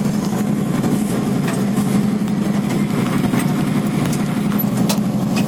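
NASCAR truck-series race truck's V8 engine running steadily at an even pitch, with a few sharp ticks or rattles scattered through.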